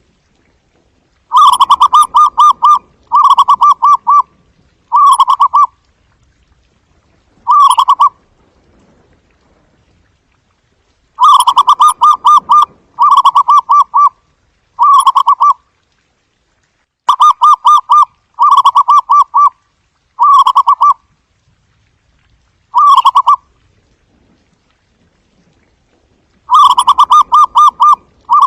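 Zebra dove giving its soft, staccato cooing call: bouts of rapid, evenly pulsed coos, each a second or so long. The bouts come in clusters of two to four, with gaps of a few seconds between clusters.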